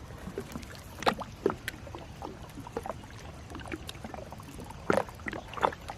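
Gill net being hauled into a small boat by hand, water pouring and dripping off the mesh, with a few short sharp splashes or knocks, the clearest about a second in and again near the end.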